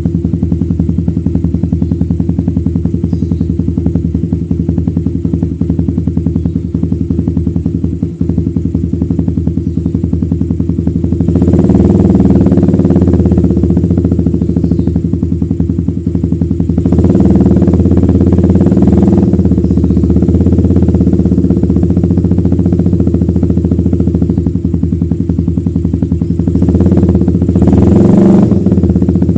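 Suzuki Satria FU's single-cylinder four-stroke engine running through a Lone Rider aftermarket racing exhaust: a steady idle, then revved up louder about eleven seconds in, again around seventeen seconds, and once more near the end.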